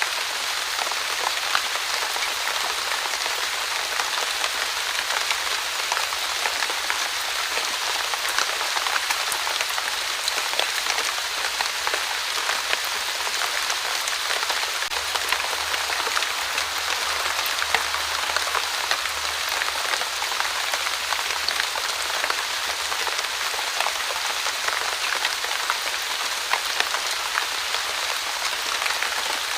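Light, steady rain falling, a dense even hiss of countless small drops pattering on a surface.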